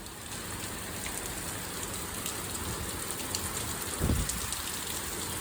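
Steady thunderstorm rain falling, with a brief low rumble about four seconds in.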